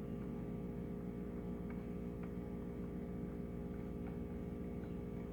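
Bench power supply humming steadily while it drives the electropolishing current through the acid bath, with a few faint ticks.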